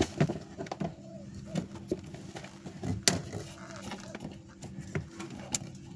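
Scattered clicks and clanks of multi-grip pliers working a spring hose clamp off a heater hose, with a few short squeaks, over a steady low hum.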